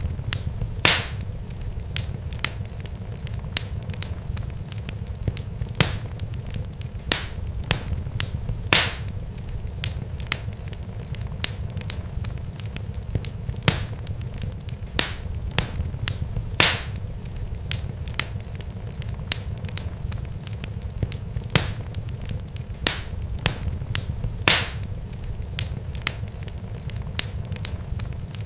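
Irregular sharp pops and crackles, a few each second and some louder than others, over a steady low rumble.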